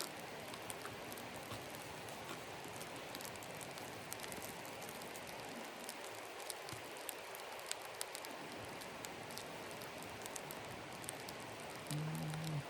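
Small wood campfire crackling: a steady hiss with many scattered sharp pops and snaps from the burning damp birch wood. Near the end, a brief low hum lasts under a second.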